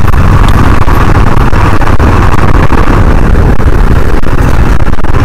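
KTM 250 Duke's single-cylinder engine running as the motorcycle is ridden, heard under a loud, steady low rumble.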